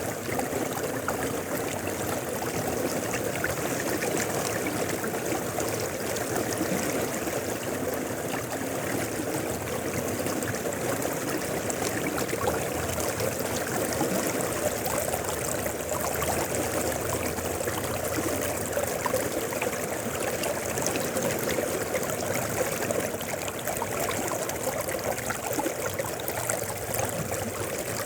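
Mountain river flowing steadily, a continuous rush of water with trickling and gurgling over stones.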